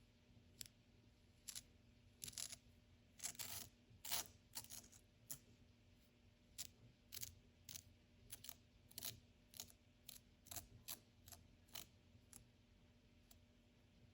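Faint, irregular clicks and short scraping strokes, about twenty of them, bunched together in the first half and thinning out towards the end.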